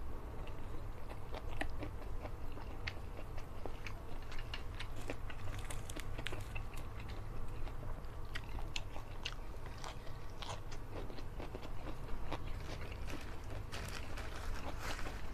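A man chewing and biting a mouthful of rice and curried fish close to the microphone, with many short, irregular wet mouth clicks. A steady low hum runs underneath.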